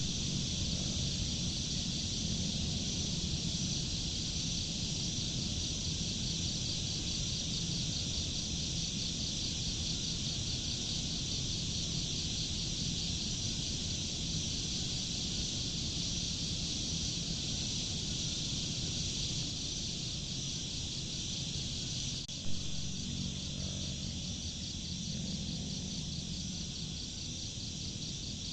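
Insects trilling in a steady, dense chorus with a fast fine pulse, over a low rumble. A single brief knock about twenty-two seconds in.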